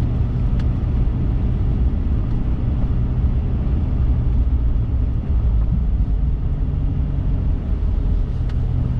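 Dodge Viper SRT10's 8.4-litre V10 running at low speed, heard from inside the cabin as a steady low drone. Near the end its note shifts slightly higher.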